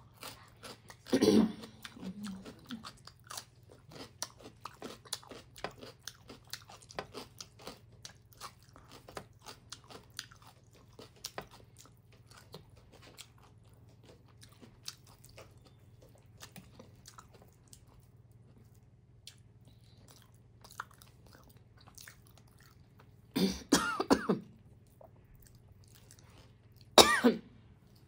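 A crisp bite into a cucumber slice, then close-miked chewing with many small wet mouth clicks that thin out and fade. Near the end, two short coughs.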